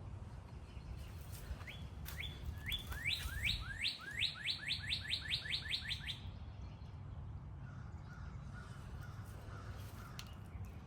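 A songbird singing: a few separate whistled notes that speed up into a quick run of about a dozen, lasting about four seconds, over a steady low background rumble.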